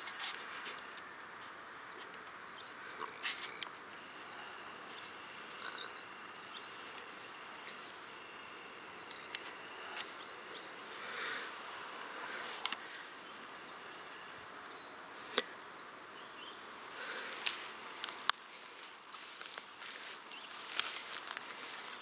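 Small birds chirping in short, high calls scattered throughout, over faint outdoor background noise. A thin, steady high tone runs for several seconds in the first half, and there are occasional sharp clicks.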